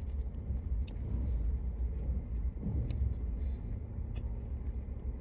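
Steady low rumble of an idling vehicle, with a few faint clicks.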